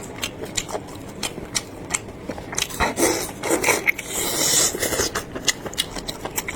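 Close-up wet chewing of soft, tender stewed meat: a steady run of small mouth clicks and smacks, with a few noisier, juicier stretches partway through.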